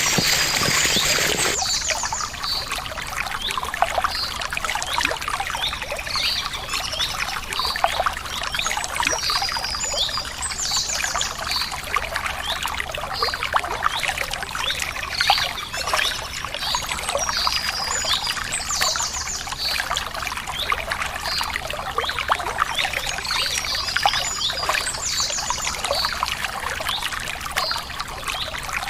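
Water falling and splashing steadily, as from a waterfall, with small birds chirping again and again above it. A brief louder burst of noise opens it for about a second and a half.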